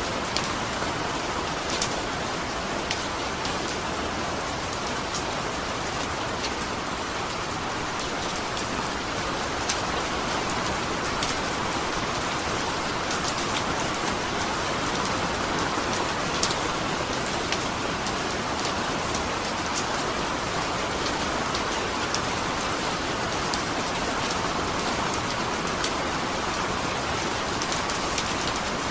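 Steady rain falling, an even hiss of rain with scattered small drop ticks.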